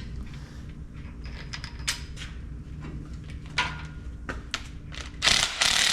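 Hand tools clicking and clinking against metal during work on a rod bearing cap of a bottom end, over a steady low hum. Near the end a loud rushing noise sets in.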